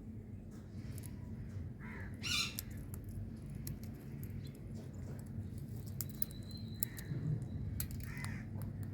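Indian ringneck parrot calling: a few short calls, the loudest about two seconds in and others near the end, over a steady low hum.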